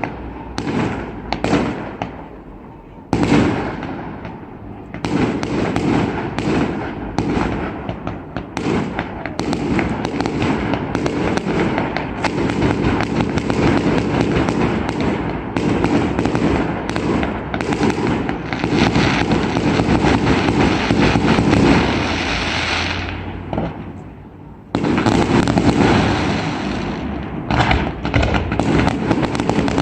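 Aerial fireworks display: a dense, continuous barrage of bangs and crackling. It thins out to a brief lull a little past three-quarters of the way through, then resumes abruptly with a loud burst.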